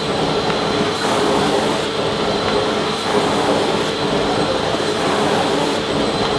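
Vacuum cleaner running continuously: a steady motor whine over an even rushing of air.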